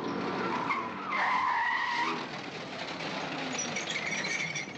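Car engine running with tyres squealing for about a second, starting about a second in, then a fainter squeal near the end.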